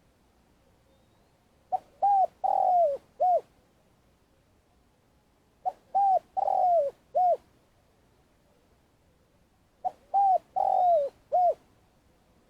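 Spotted dove cooing its song three times, about four seconds apart. Each phrase is four coos: a short note, a rising-and-falling coo, a longer coo that falls away, and a short closing coo.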